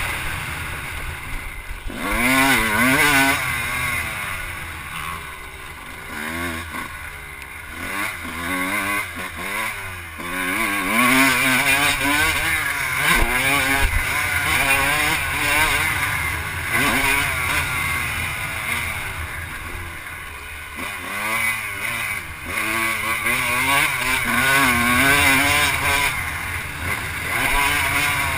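Off-road vehicle engine being ridden around a dirt motocross track, revving up and falling back again and again as the throttle is worked through jumps and turns.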